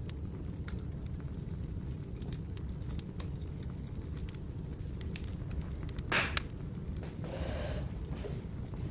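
Wood fire burning, with scattered small crackles over a steady low rumble and one louder snap about six seconds in, followed by a brief rustling hiss.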